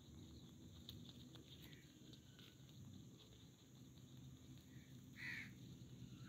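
Near silence: faint outdoor ambience with a few short, distant bird calls, the clearest about five seconds in.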